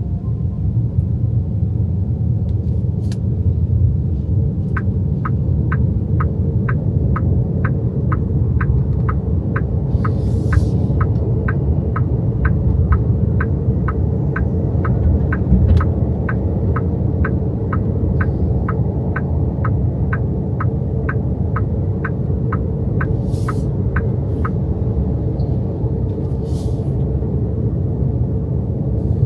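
Steady road and tyre rumble inside the cabin of an XPENG G6 electric SUV under way. From about five seconds in, the turn-signal indicator ticks evenly, about twice a second, for some twenty seconds and then stops.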